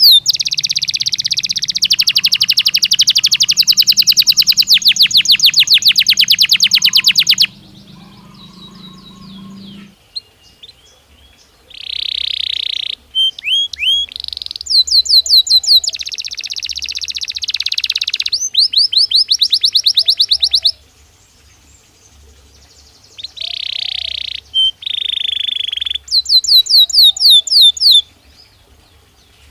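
Belgian canary singing in rapid trills and repeated falling whistled notes, phrase after phrase, with a few seconds of pause about a third of the way in and again past the middle.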